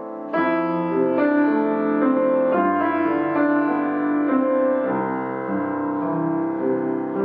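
Solo piano music: held chords, a new one struck about half a second in and others every second or two, each left ringing.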